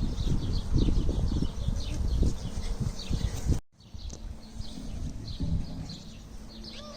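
Small birds chirping, with loud, irregular low rumbling and thumps through the first half that cut off abruptly, followed by quieter background with a faint steady hum.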